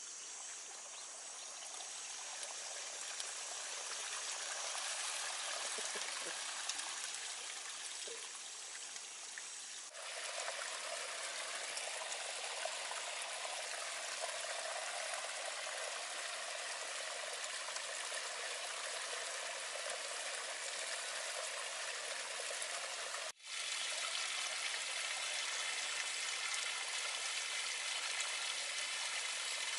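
Steady running water, trickling and pouring, with no speech. The sound changes abruptly twice, about a third of the way in and again near the last quarter, where it briefly drops out.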